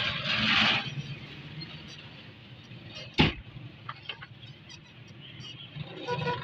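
A car running with a steady low hum. There is a short hiss near the start and one sharp knock about three seconds in, followed by a few light clicks.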